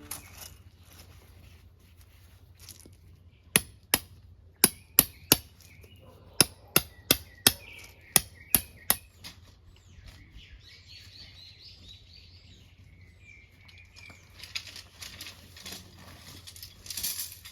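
A run of about a dozen sharp knocks, two or three a second, followed by birds chirping and then a rustling noise near the end.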